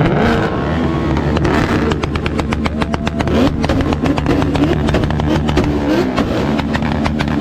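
Engine revved hard in repeated rises and falls, with a rapid crackle of exhaust pops from about two seconds in.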